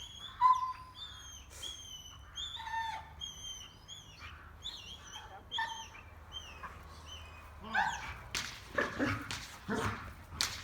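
Welsh Corgi puppy making short, high-pitched whines that repeat quickly over the first several seconds, then a run of short, sharp yaps from about eight seconds in.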